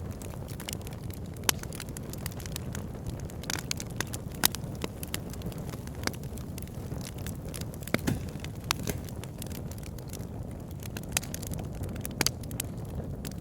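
Wood fire burning in a fireplace: a steady low rush of flame with frequent, irregular sharp crackles and pops from the burning logs, the loudest about one and a half and four and a half seconds in.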